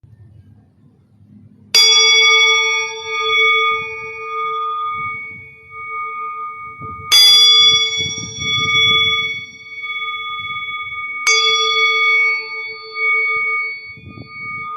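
A metal singing bowl struck three times, each strike ringing on in a steady tone with a slow pulsing wobble that fades gradually.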